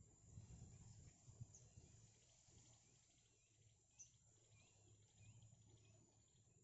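Near silence: faint outdoor ambience with a low rumble, a thin steady high tone, rapid insect-like pulsing and a few short, faint rising chirps.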